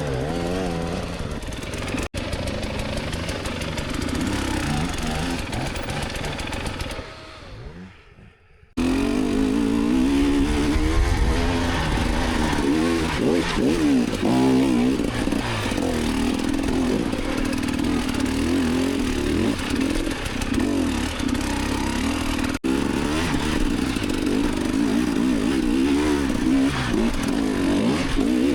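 Enduro dirt bike engine revving and labouring, its pitch rising and falling with the throttle. It fades away about seven seconds in, then after a short gap a louder, closer engine cuts in suddenly and keeps revving unevenly.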